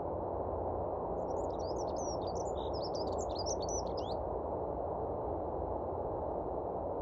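A bird gives a quick run of high, rapid chirps for about three seconds over a steady low rushing background noise.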